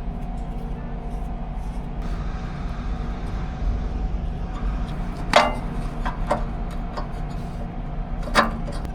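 Hand tools knocking on metal while working on a truck part: three sharp clinks, about five and a half, six and a half and eight and a half seconds in, over a steady low mechanical hum.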